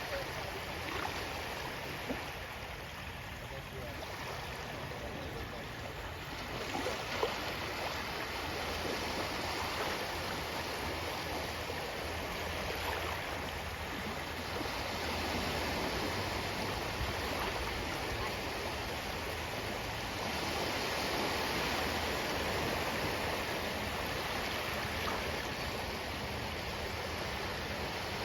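Ocean waves washing in a continuous rush of noise that rises and falls in slow swells, loudest about two-thirds of the way through.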